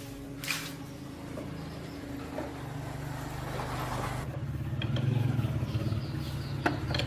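Small single-cylinder motorbike engine running with a steady low hum, growing louder about four seconds in. A sharp click sounds about half a second in.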